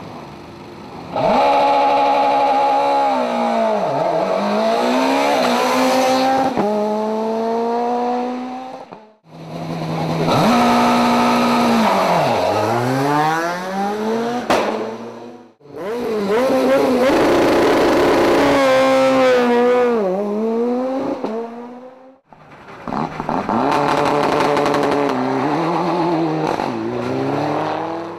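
Rally cars driven hard on a special stage, in four short passes joined by cuts: each engine is loud and revs up and down, its pitch dropping and climbing again through the gear changes and braking.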